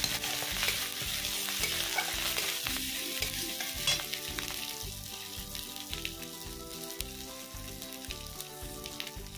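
Chopped onion, green chilli and ginger-garlic paste sizzling in hot oil in an aluminium kadai, with a metal spatula scraping and stirring. The stirring stops after about three seconds and the sizzle fades to a softer steady frying.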